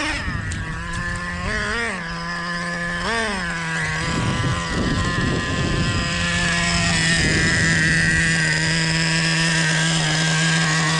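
Nitro RC truck engine, the Traxxas Revo 3.3's, blipped three times in quick rising-and-falling revs. It then holds a steady high-revving note to the end, with a rushing noise for a few seconds in the middle.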